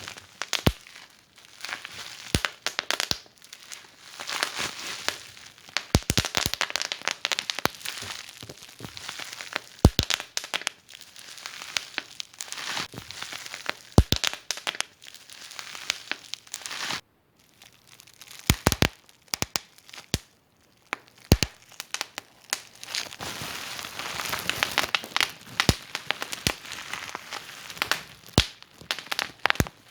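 Wood fire burning in a fireplace, crackling steadily with irregular sharp pops and snaps. The sound drops out for a moment a little past halfway, then the crackling resumes.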